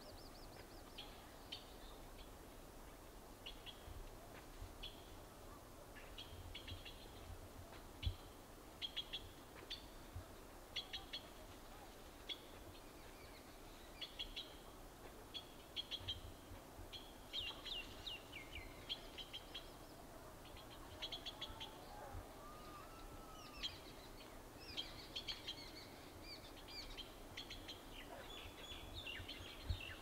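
Faint bird chirps and short high trills, coming irregularly and growing busier about halfway through, with a lower curving whistled call about two-thirds in. A few soft low thumps sound, the strongest about eight seconds in.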